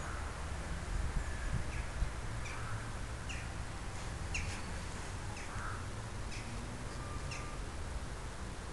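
Small birds chirping: short, high, falling notes about once a second, over a steady low rumble.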